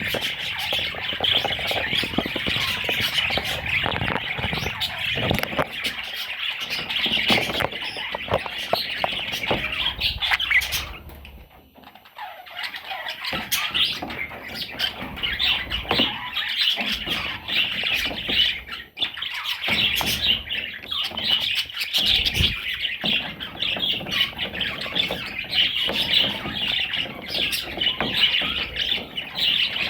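Budgerigar chattering and warbling in a rapid, continuous stream of chirps and squawks, breaking off briefly about eleven seconds in.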